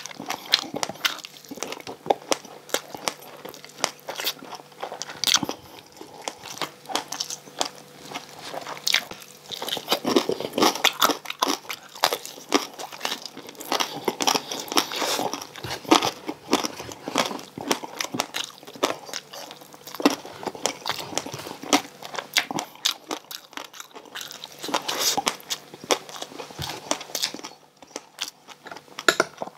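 Close-miked chewing of crispy deep-fried pork belly (bagnet), a dense, irregular run of crackling crunches from the hard fried skin, with a short lull near the end.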